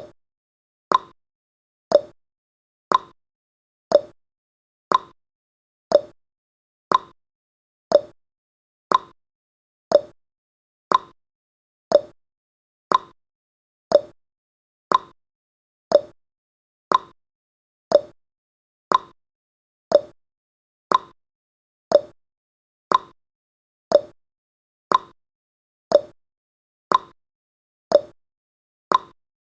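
Countdown timer's ticking sound effect: one short, sharp tick every second, evenly spaced and unchanging.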